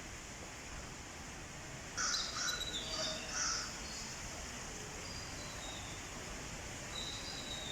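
Crows cawing, a quick run of harsh calls about two to three and a half seconds in, over a steady background hiss.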